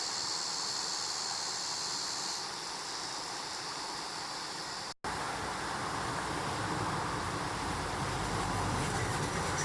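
Mountain stream water rushing steadily over rocks. About halfway through the sound drops out for an instant, and a fuller, deeper rush of water follows.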